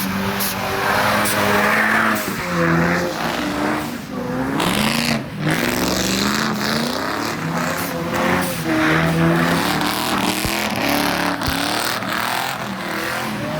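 Car engine revving up and down over and over, with tyre squeal mixed in, as during a burnout or donuts.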